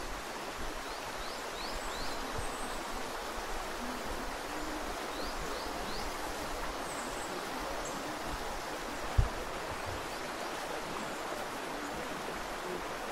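Steady rushing of a forest stream or waterfall, with a few groups of short, high bird chirps over it. A single dull thump about nine seconds in.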